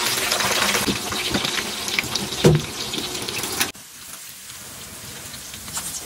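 Battered chicken pieces sizzling in hot oil in a wok, with a single knock about two and a half seconds in. Just before four seconds the sizzle cuts off abruptly, leaving a fainter hiss.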